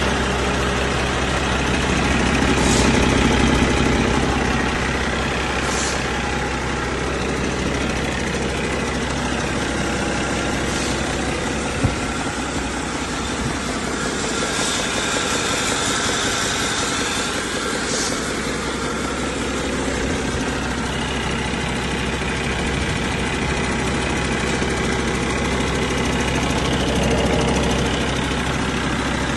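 2012 Cummins ISX15 inline-six diesel truck engine running steadily at idle on a test run, with a single sharp click about halfway through.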